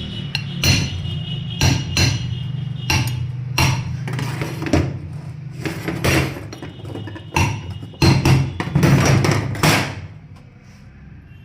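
Hammer blows, a dozen or more at irregular spacing, over a steady low hum that drops away near the end.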